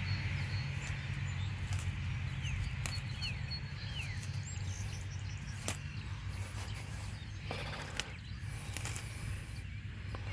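Outdoor ambience: a steady low rumble, with a few short falling bird chirps in the first few seconds and scattered light clicks.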